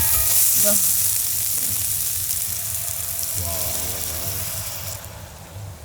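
Food sizzling in a hot pan of pasta sauce: a loud hiss that fades gradually and stops about five seconds in.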